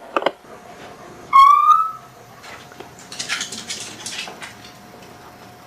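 A bird calling: a single loud whistled note, rising slightly over about half a second, about a second and a half in, followed by softer scratchy chirps.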